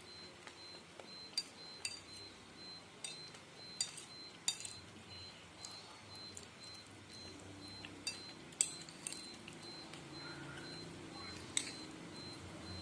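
Cutlery clinking against a bowl while eating noodles and meatballs: about a dozen sharp, light clinks at irregular intervals.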